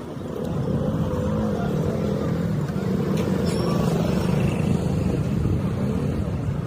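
Motorcycle engine running at a steady pace, swelling about half a second in, its pitch wavering slightly.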